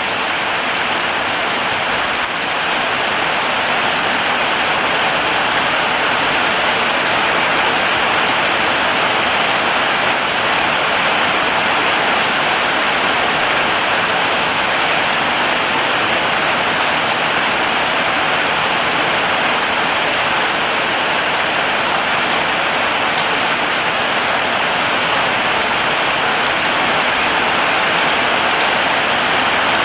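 Heavy rain falling steadily, a dense even hiss of rain on surfaces. It grows slightly louder about two seconds in.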